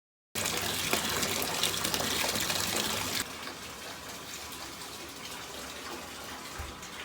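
Water running from a tap, a steady rush that cuts in suddenly, runs strongly for about three seconds, then flows more quietly.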